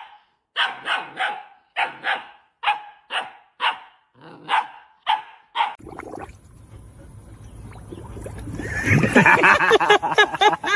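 A dog barking repeatedly, about a dozen short sharp barks at roughly two a second. After a break comes a louder stretch of wavering, high-pitched cries near the end.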